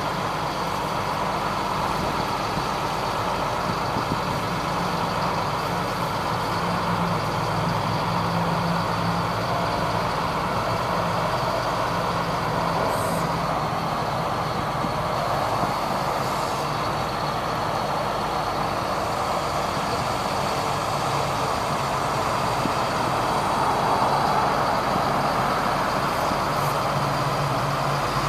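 A 1999 GMC digger truck's engine running steadily, with an even low hum and no change in speed.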